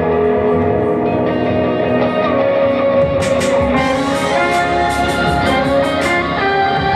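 Live music led by guitar playing an instrumental passage: held chords at first, then about three seconds in a bright, rhythmic run of strums or cymbal-like strokes joins in.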